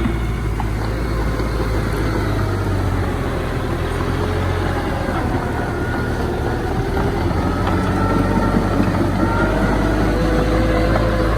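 Heavy diesel earthmoving machinery running steadily with a deep engine hum, with faint drawn-out squealing tones over it. It grows a little louder about two-thirds of the way through.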